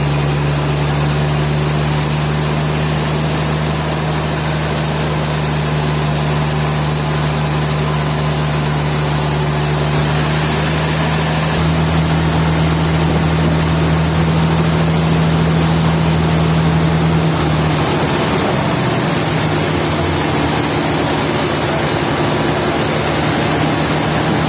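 Sawmill machinery running steadily with a loud, low engine-like hum; the hum shifts about halfway through and wavers briefly about three-quarters of the way in.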